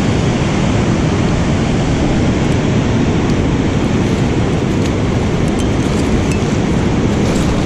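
Loud, steady rushing of water with no breaks, heaviest in the low range.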